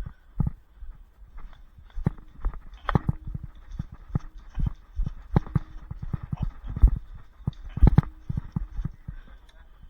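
Irregular thumps and knocks, about two or three a second, typical of footsteps on the ground with gear jostling; a few louder knocks come in the middle and near the end.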